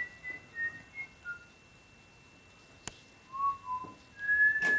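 A person whistling a few short notes of a tune, stepping downward, then after a pause two lower notes and a longer held note near the end. A sharp click comes about three seconds in.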